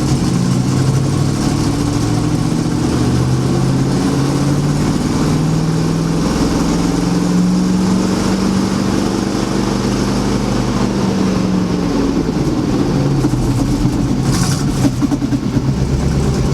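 Dump truck engine running cold, held above idle: the revs climb slowly, hold, then drop back lower about twelve seconds in.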